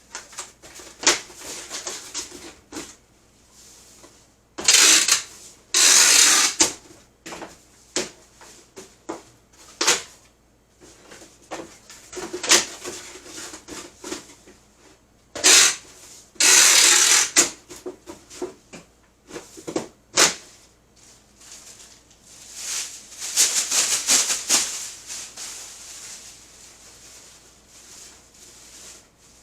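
Irregular handling noises: rustling, scraping and knocks of things being moved about by hand, with longer loud rustling stretches about five, sixteen and twenty-four seconds in.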